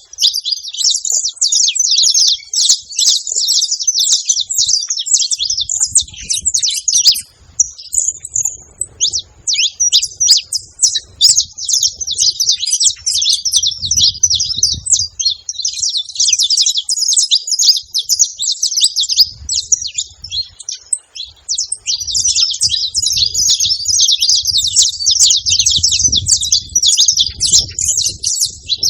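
Saffron finch (canário-da-terra) singing: a long, almost unbroken run of rapid high chirping phrases, with short breaks about seven and about twenty-one seconds in.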